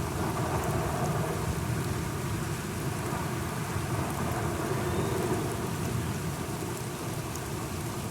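Steady rain falling, with a low continuous rumble of thunder underneath.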